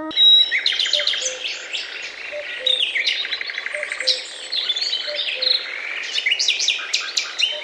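Songbirds chirping and singing, many quick overlapping chirps and trills with no pause.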